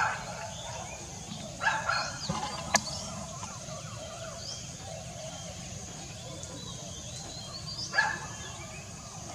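African grey parrot giving a few short, separate calls: one at the start, a pair about two seconds in, and one near the end, led in by a faint rising whistle. There is a sharp click about three seconds in.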